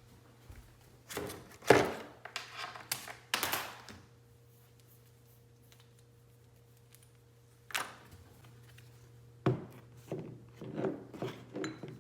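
A few short knocks and handling noises in the first few seconds, another knock near the end followed by more, over a faint steady low hum.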